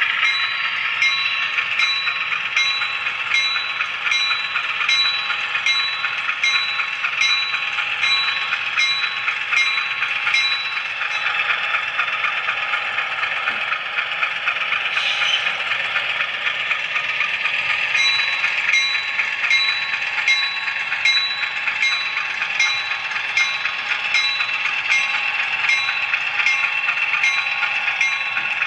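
HO scale model train rolling along the track, the wheels clicking over rail joints about twice a second over a steady rolling rumble and a thin whine.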